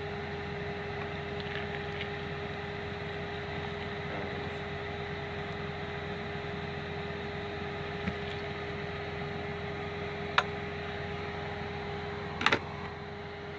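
Steady mechanical hum of a semi-truck's auxiliary power unit running, heard inside the cab with a constant tone. A few sharp light clicks come through, at about eight and ten seconds in and a double click near the end.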